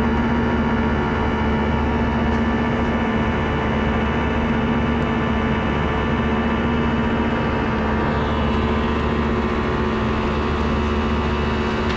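Airbus A319 jet engines running steadily, heard inside the passenger cabin as a constant drone with a steady hum and whine over the rumble.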